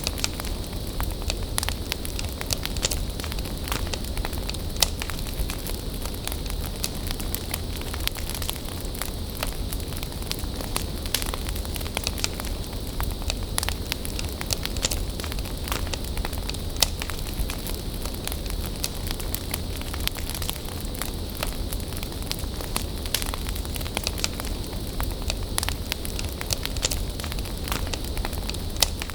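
Bonfire burning, with frequent irregular sharp crackles and pops from the burning wood over a steady low rumble and hiss.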